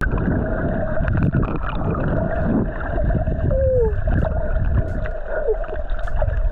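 Underwater sound: a steady rumble of moving water with a faint held hum and scattered clicks, and a few short squeaks that glide in pitch, one about three and a half seconds in and another near the end.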